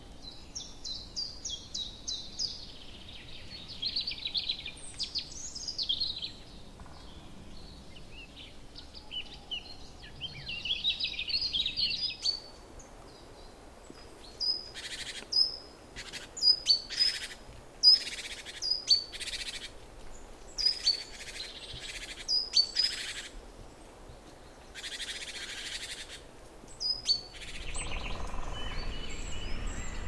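Wild birds singing: quick, varied chattering and twittering song for the first twelve seconds, then a string of short, sharp calls at roughly one a second. A rush of steady background noise comes in near the end.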